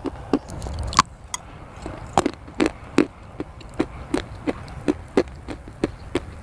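Chewing brown crunchy clay: a run of sharp, irregular crunches, about two to three a second, with the loudest bites about one and three seconds in.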